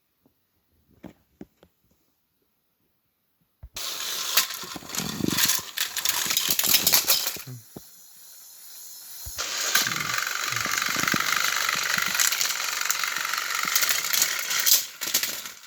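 Small electric motors of battery-powered Thomas & Friends toy train engines running and rattling, after a few soft clicks. The noise starts suddenly about four seconds in, dips for a couple of seconds in the middle, then runs loud again.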